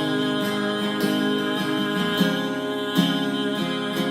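Music: a song's accompaniment of strummed acoustic guitar.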